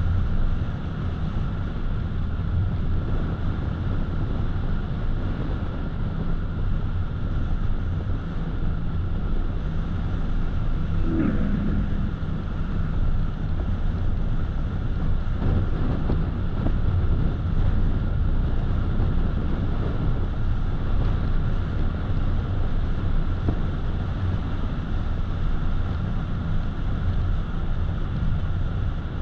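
A car driving at steady speed: continuous tyre, engine and wind noise with a low rumble. About eleven seconds in there is a brief falling squeak.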